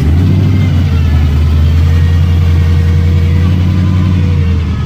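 Car engine that has just fired up, running loud and steady with a low rumble and easing off slightly near the end.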